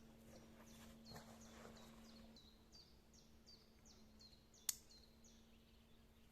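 A bird calling faintly: a run of about a dozen short, high notes, each falling in pitch and then levelling off, two or three a second. A single sharp click comes near the end.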